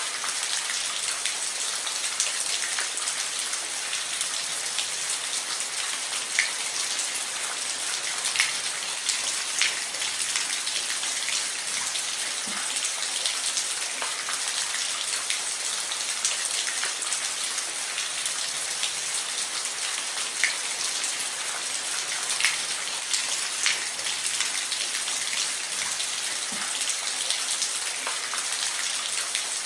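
Rain falling steadily on a roof: an even hiss with scattered sharper drop ticks.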